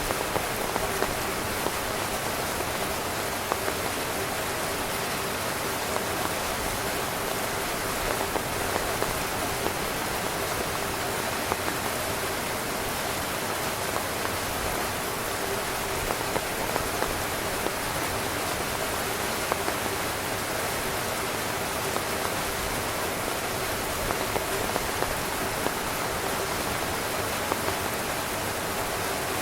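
Steady rain falling on a tent, a constant hiss with many individual drops tapping on the fabric.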